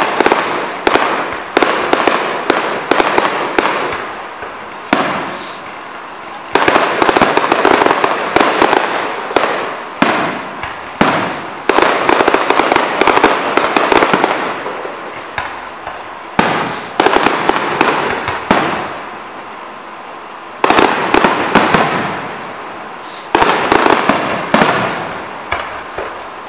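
Aerial fireworks display: shells going off in quick succession, each bang trailed by crackling. Denser volleys of bangs and crackle break in every few seconds.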